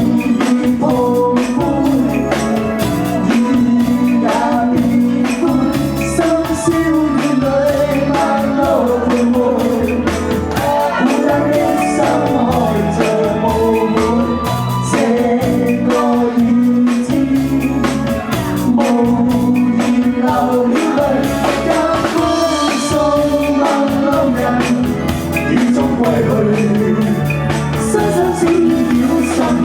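A live band playing a pop song, with a singer's voice over drum kit and backing instruments.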